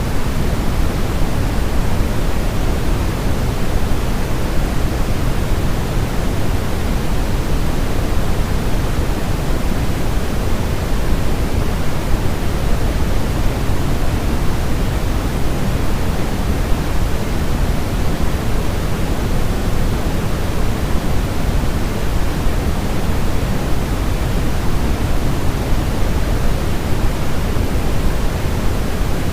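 Steady baby sleep-aid white noise, an even hiss heavier in the bass than the treble and unchanging throughout, meant to imitate the sound of the womb.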